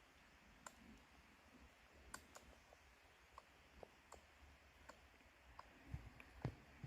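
Squirrel feeding at a feeder: faint, scattered clicks and taps at irregular intervals, a few louder ones near the end.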